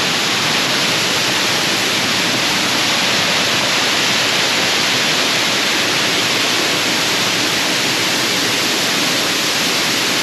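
A 63-foot waterfall heard up close: steady, loud rushing of falling water.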